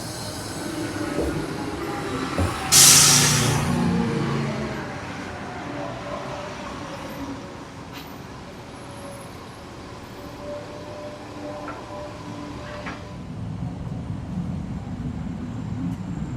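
A train running past with a faint squeal from its wheels, and a sharp, loud hiss about three seconds in that fades away over a second.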